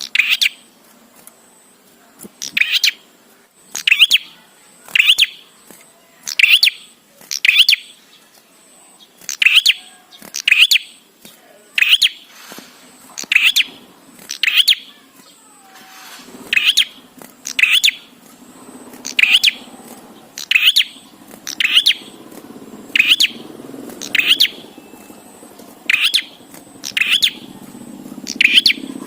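Prenjak bird calling over and over: short, sharp, high chirps, each nearly the same, about one every second and a half, with a faint low hum underneath.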